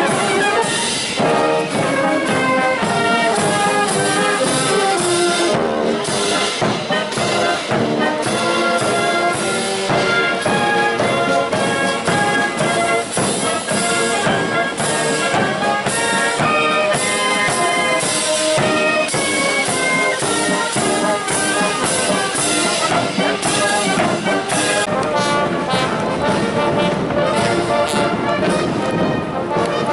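Military band of brass and drums playing a march, with the brass in full chords over a steady drum beat.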